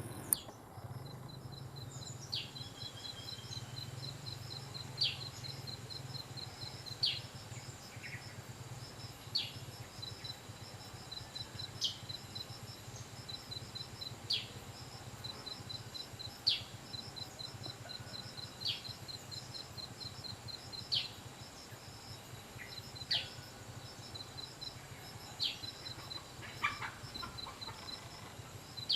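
Birds calling: a short, high call sweeping sharply downward, repeated about every two and a half seconds, over a steady rapid train of high pips and a low hum. A few lower, separate calls come in near the end.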